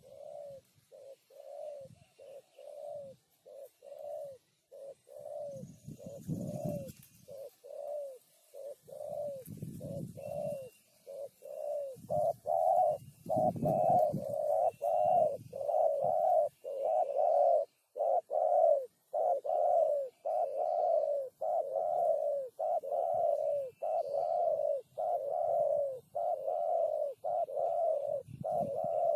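Spotted dove (tekukur) cooing over and over in short, evenly spaced notes, about one and a half a second, growing louder about twelve seconds in. A low rumble comes and goes a few times beneath it.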